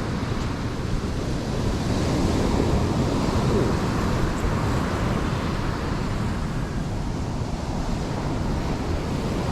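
Wind buffeting the microphone: a steady, low rushing rumble with no distinct events.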